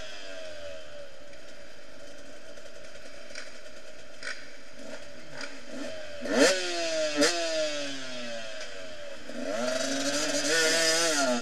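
Enduro motorcycle engine idling, blipped sharply to high revs twice about six and seven seconds in, each time falling back to idle. Near the end it is revved up and held high as the bike pulls away.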